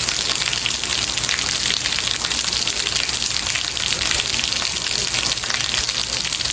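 Steady heavy rain, a dense, even patter of countless drops hissing down without pause.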